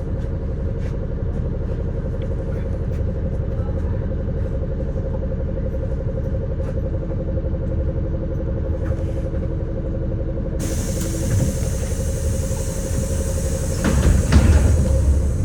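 City bus running on the road: a steady engine and road rumble with small rattling clicks. About two-thirds in a steady high hiss starts suddenly, and the rumble swells louder near the end.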